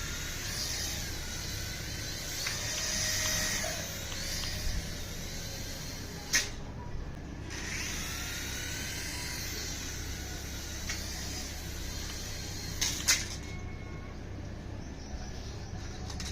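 Small electric motor of a remote-control toy whining, its pitch sliding up and down as it speeds up and slows. There are two sharp clicks, about six seconds in and about thirteen seconds in.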